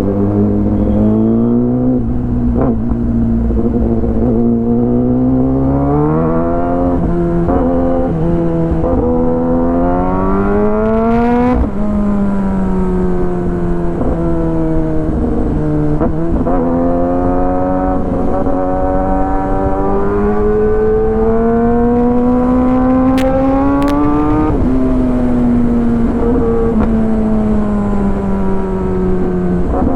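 Kawasaki ZX10R inline-four through an Arrow full exhaust system, heard from the rider's helmet. The engine note climbs under acceleration, drops at a gear change about eleven seconds in, and climbs slowly again. It falls as the throttle is eased off near the end.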